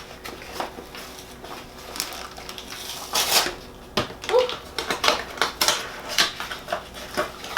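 Kitchen handling sounds: irregular clinks, clicks and rustles as dishes and wrapped food are moved about.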